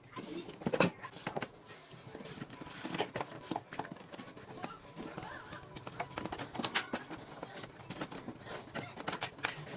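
Irregular clicks and knocks of plastic air-conditioner parts being handled and fitted, with faint voices in the background.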